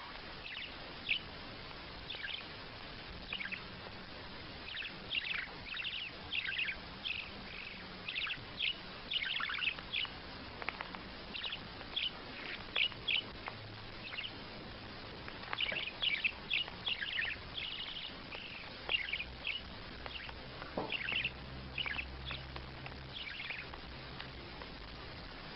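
A small bird chirping: many short, high calls in quick clusters with brief pauses between them.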